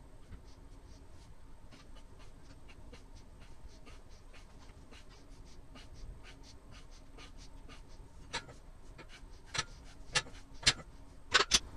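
Rapid rhythmic panting, about four breaths a second, like a dog's. A few louder sharp clicks and knocks come in the last few seconds.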